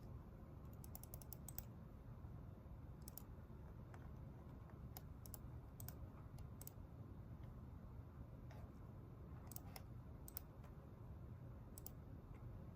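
Scattered light taps of typing on a computer keyboard, with a quick run of taps about a second in and single taps every second or two after, over a steady low hum of the room.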